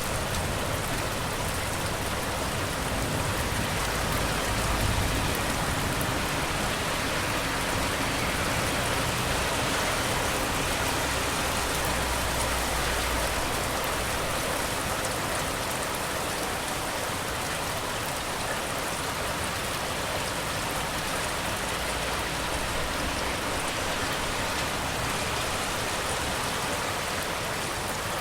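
Steady rain falling as an even hiss, with low rumbles swelling and fading in the first few seconds, around the middle, and again later on.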